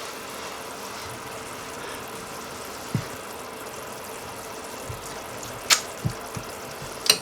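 Sweet rib-juice glaze simmering down in a pan: a steady bubbling hiss with a faint steady hum under it. A few soft knocks and two sharp clicks come in the second half.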